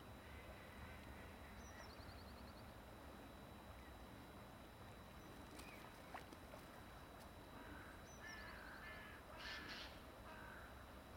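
Faint wild bird calls over a steady low rumble: a short high song ending in a quick trill, heard twice, and a few harsher calls near the end.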